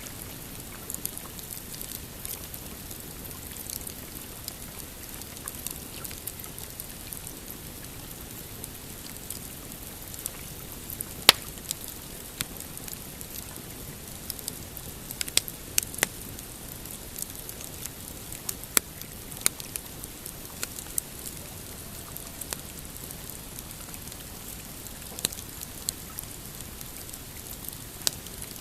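Pine campfire crackling, with irregular sharp pops, the loudest about eleven seconds in and a cluster a few seconds later, over a steady hiss. Small waves lap on a rocky shore underneath.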